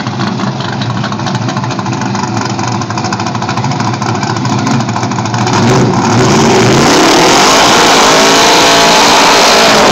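A car engine rumbles at low revs, then about five and a half seconds in it revs up hard and stays at high rpm during a burnout, with the spinning tyres adding a hiss. It is very loud and sits near the rev limiter.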